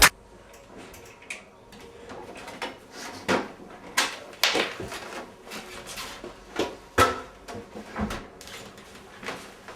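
Irregular knocks and clicks, roughly one or two a second, some sharp and some with a short ringing tail.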